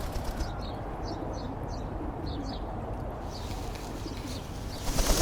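Outdoor ambience with birds calling: short high chirps through the first three seconds over a steady background hiss, which grows louder near the end.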